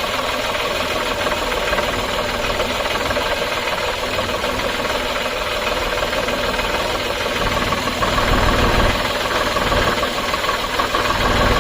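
An engine running steadily, with a low rumble that swells briefly near the end.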